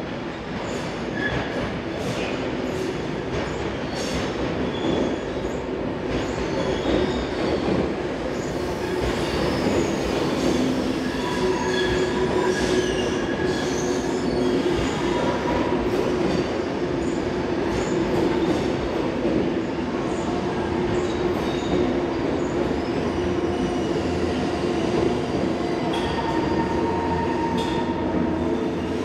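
SBB passenger train of EW IV coaches with a Re 460 locomotive rolling over the station points with a steady rumble. The wheels give irregular clicks over the switch joints and short high squeals.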